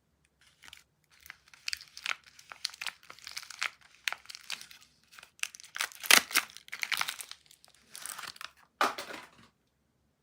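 Soap packaging being unwrapped by hand: an irregular run of crinkling and tearing of the wrapper that stops shortly before the end.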